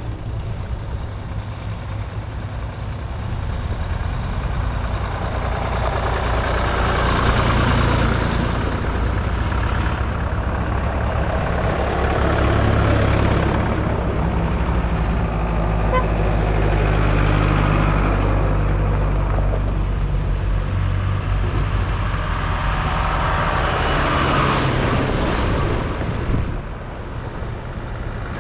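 Vintage farm tractors driving past one after another, their engines running steadily. The sound swells about four times as each tractor passes close. A high whine is heard for a few seconds midway.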